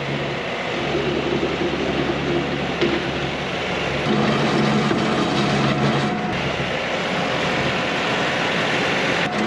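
Kioti NS6010 cab tractor's diesel engine running steadily while it plows snow, its note shifting and getting a little louder about four seconds in.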